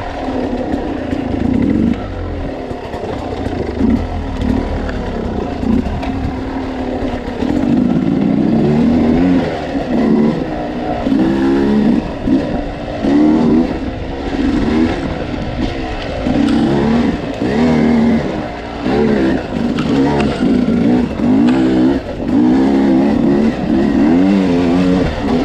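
Dirt bike engine heard from on board while riding, held fairly steady at first, then revving up and down about once a second as the throttle is worked on and off.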